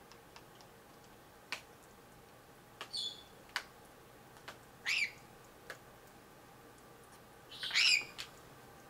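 Cape parrot giving three short squawking calls, the last and loudest near the end, with a few sharp clicks in between.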